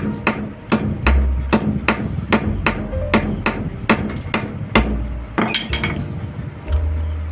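Hammer blows at about three a second that stop about five and a half seconds in.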